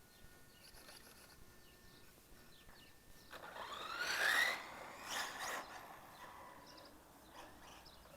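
Electric motor of a Hobao Hyper EPX RC semi truck whining up in pitch as the truck accelerates, about three seconds in, followed by a second shorter burst of throttle about a second later.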